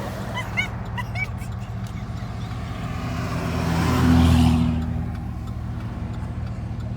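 A motor vehicle engine running steadily, with a louder swell of engine and road noise that builds and fades around the middle of the clip.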